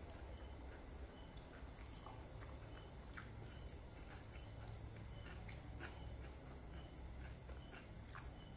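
Faint chewing: soft, scattered mouth clicks and smacks of someone eating, over a steady low hum and a faint high chirp that repeats at an even pace.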